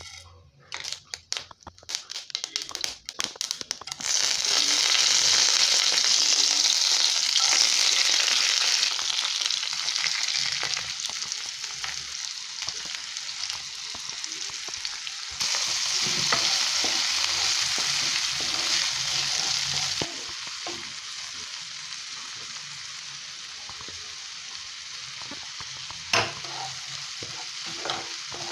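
Mustard seeds and dal crackling and popping one by one in hot oil. About four seconds in, chopped onion, tomato and green chilli start frying in a loud, steady sizzle while being stirred, and the sizzle drops to a lower level for the last part. There is one sharp tap near the end.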